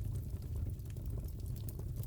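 Fireplace burning: a steady low rumble of the fire with many small scattered crackles and pops.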